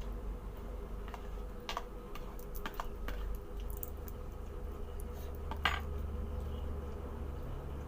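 Scattered light clinks and taps of cutlery on dishes while eating, with one louder clink about two-thirds in, over a low steady hum.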